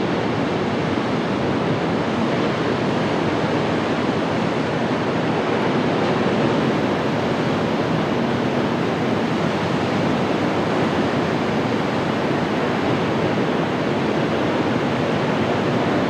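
Steady rushing of water and wind aboard a boat under way, an even hiss with no breaks.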